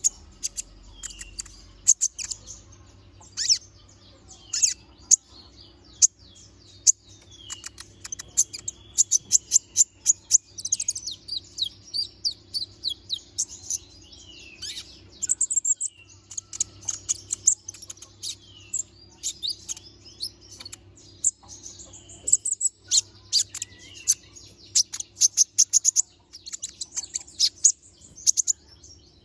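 Kolibri ninja (konin) sunbird singing: rapid bouts of sharp, high-pitched chirps and trills, with short downward-sliding notes in between. A faint low hum runs underneath.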